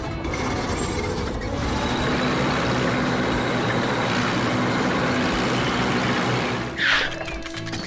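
Heavy construction-vehicle engine running steadily, with a brief high-pitched sound near the end.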